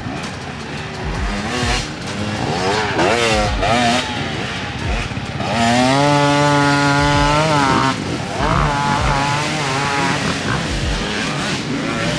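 Dirt bike engines revving up and down as riders work through the course. One engine is held at high revs for about two seconds near the middle, then drops off.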